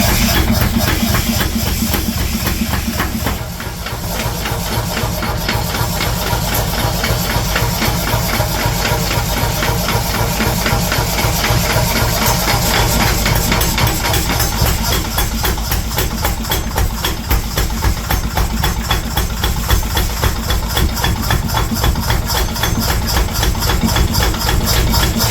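A machine running steadily with a fast, even pulse over a low hum, with a brief dip in level about three and a half seconds in.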